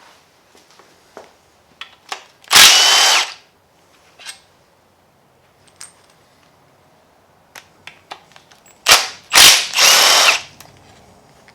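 A handheld power tool runs in short loud bursts on bolts during an engine teardown: one burst, then three in quick succession near the end. Small metallic clicks and clinks come in between.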